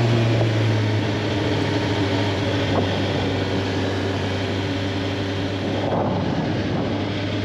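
Suzuki GSX-R 750 sportbike's inline-four engine running at a steady speed, with a constant hum under a wash of noise.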